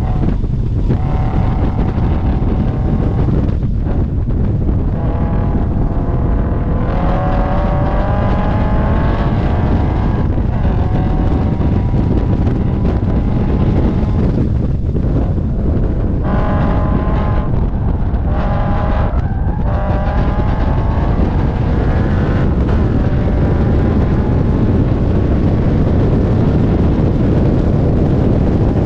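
Scion FR-S's 2.0-litre flat-four engine running hard on track, its pitch climbing as it revs and breaking off several times, under heavy wind rush on the microphone.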